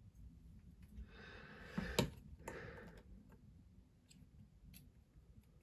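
Small plastic Lego pieces being handled: a brief rustle with a few sharp clicks about two seconds in, then a handful of faint light ticks.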